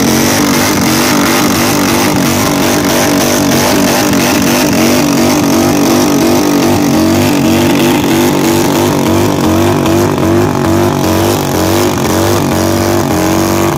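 Motorcycle doing a burnout with loud pipes, its engine bouncing off the rev limiter in a steady repeating rhythm while the rear tire spins against the ground.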